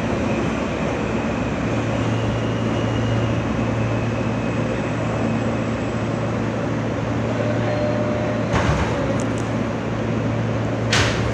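Steady interior noise of an R160 subway car: a low hum over an even rumble, with two sharp knocks, one about eight and a half seconds in and another near the end.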